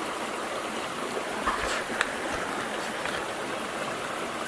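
Creek water running steadily, with two faint clicks about one and a half and two seconds in.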